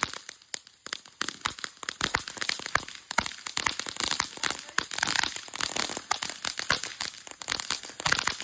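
Rapid crackling of a firework: many small sharp pops in quick succession, starting about a second in and going on unevenly.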